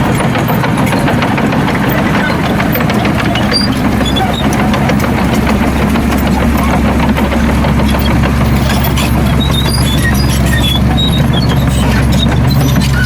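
Heavy diesel engine of earthmoving machinery running steadily; its low drone deepens and strengthens about four seconds in. Scattered small clicks and clinks sit over it.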